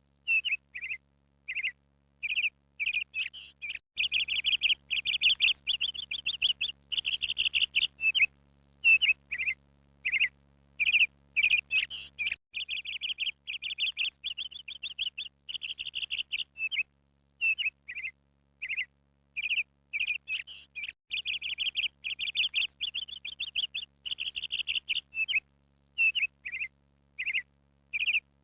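Birds chirping in quick runs of short, high calls, broken by brief pauses.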